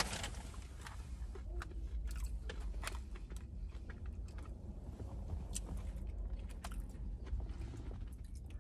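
A person chewing a mouthful of deep-fried mozzarella Korean corn dog, its crunchy batter coating giving scattered small crunches and clicks. A low steady hum sits underneath.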